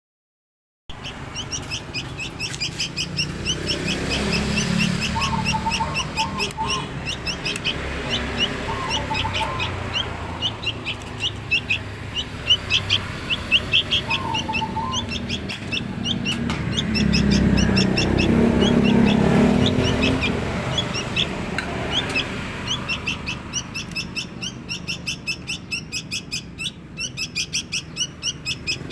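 Baby songbirds chirping rapidly in a long string of short, high begging calls while being hand-fed. A low rumble swells in the middle.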